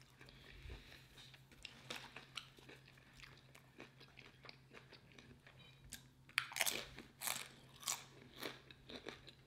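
Close-miked chewing with soft mouth clicks, then a salsa-dipped tortilla chip bitten and crunched several times over the last three seconds or so. A faint steady low hum runs underneath.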